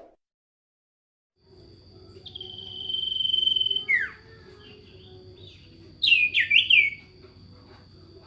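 A songbird singing clear whistles: one long held whistle, a quick falling note, then a rapid cluster of short chirping notes about six seconds in. A steady thin high tone runs underneath.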